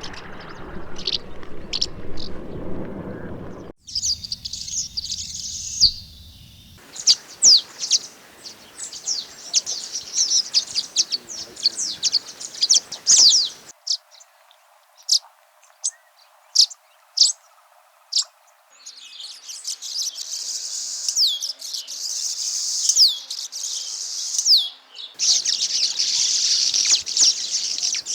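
Swallows twittering: quick, high chirps in runs, across several spliced recordings whose background noise changes abruptly a few times.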